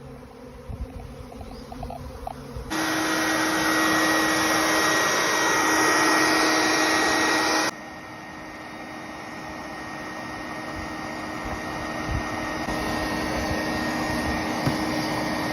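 Swarming honeybees buzzing as a dense, steady hum. It grows sharply louder about three seconds in and drops back abruptly a few seconds later.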